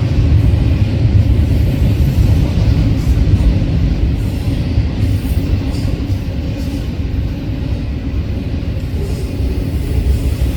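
Freight cars rolling past on the rails, a loud steady low rumble of wheels on track that eases off slightly partway through.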